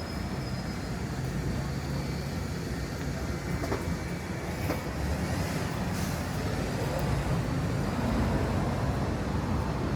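Steady low rumble of a heavy vehicle passing in the street, with a few faint clicks.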